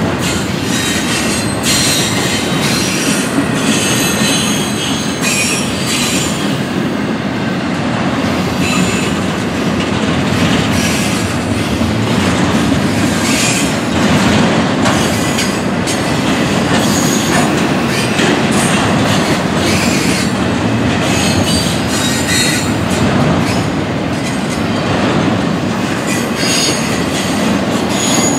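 Double-stack intermodal freight train rolling past: a steady loud rumble and clatter of wheels on the rails, with brief high-pitched wheel squeals now and then.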